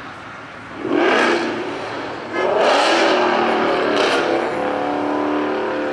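A car engine revving: a short rev about a second in, then a louder, longer rev from just past two seconds that settles into a steady drone.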